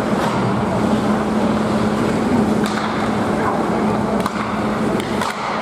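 Ice hockey game in a rink: steady scraping of skates on the ice with a few sharp stick and puck clicks over a constant low hum, and faint voices underneath.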